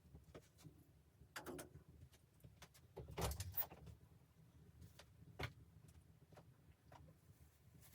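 Faint, scattered clicks and knocks of something being handled, with a louder cluster of knocks about three seconds in and a single sharper knock a little after five seconds.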